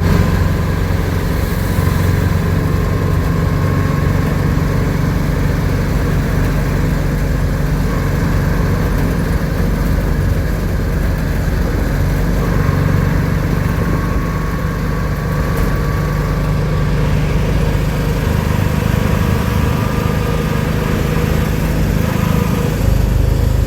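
Motor vehicle engine running steadily, a low even drone whose pitch barely changes.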